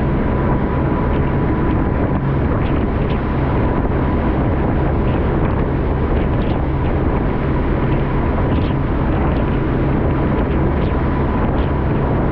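Boat motor running steadily at speed, with wind noise on the microphone.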